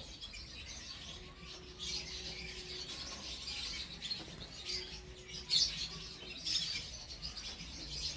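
Domestic canary singing a continuous run of high chirps and trills, with a few louder phrases past the middle.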